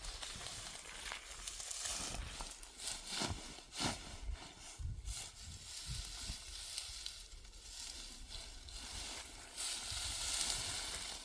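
Dry crackling and rustling noise with scattered sharp clicks.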